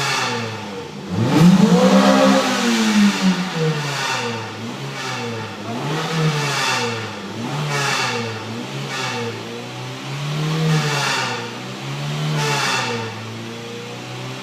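Honda Civic MB6 VTi-S's B18 four-cylinder engine revved in repeated short blips about every two seconds, the biggest rev about a second in, through a raspy exhaust.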